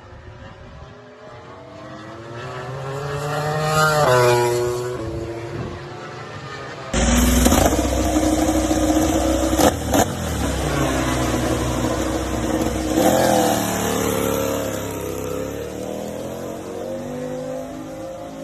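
MotoGP race motorcycles passing on track at speed, engine pitch rising as each approaches and dropping as it goes by. Several passes, with a sudden louder stretch starting about seven seconds in.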